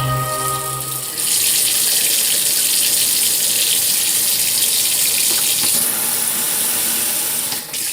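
Background music for about the first second, then water from a washbasin's pull-out shower faucet running steadily into the sink, with a brief dip near the end.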